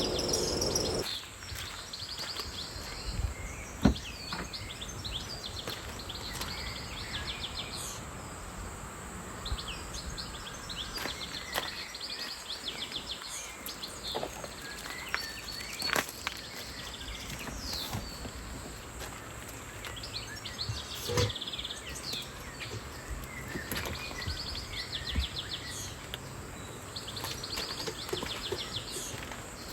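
Small birds calling in a forest, a run of short rapid trills repeating every few seconds, with scattered light clicks and knocks close by. A louder sound stops about a second in.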